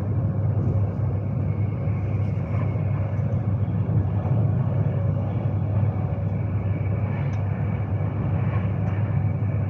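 Steady running rumble of a Class 390 Pendolino electric train at speed, heard from inside the carriage, with a faint steady whine above it.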